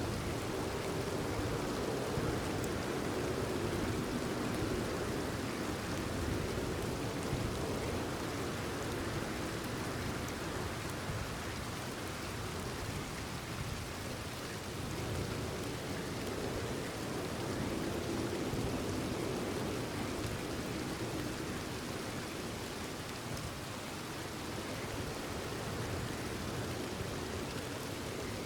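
Steady rain falling: an even, continuous hiss of drops.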